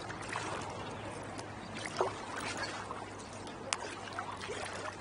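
Water trickling and splashing around a kayak on open water, with a few short faint calls scattered through it.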